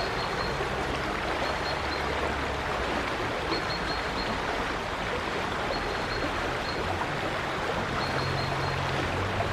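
River water flowing steadily, an even rushing sound with no let-up. Faint short high notes recur every two seconds or so.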